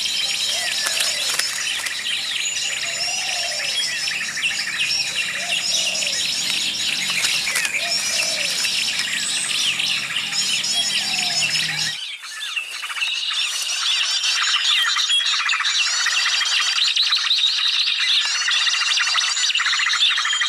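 Dense chorus of small songbirds chirping, trilling and twittering over one another without a break. A few lower, arching calls sound in the first half, and about halfway through the low background hum drops away abruptly while the chirping carries on.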